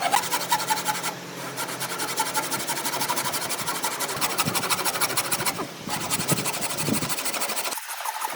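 Fast, rhythmic rasping of a tool working wood, with two brief breaks, stopping near the end.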